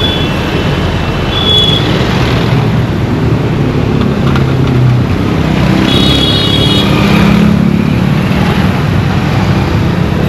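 Dense road traffic: engines running under a steady noisy rumble. Short high horn toots come at the start, about a second and a half in, and again around six to seven seconds in.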